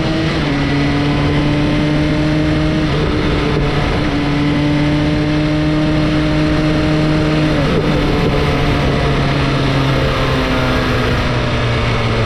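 A sport motorcycle engine runs under way over heavy wind rush. Its pitch creeps up, then drops in steps several times, as with gear changes.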